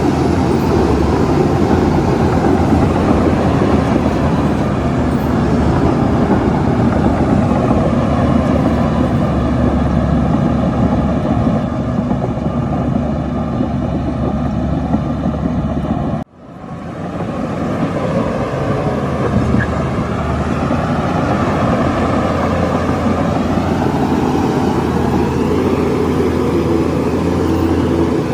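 Heavy diesel earthmoving machinery running steadily at close range, a dense low rumble. About sixteen seconds in, the sound cuts out abruptly, then fades back in.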